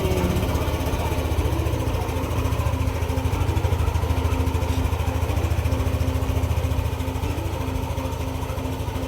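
Yamaha NMAX 155 V2 scooter's single-cylinder four-stroke engine running steadily at idle. It starts easily and runs evenly once its defective spark plug and spark plug cap have been replaced, where before it was hard to start.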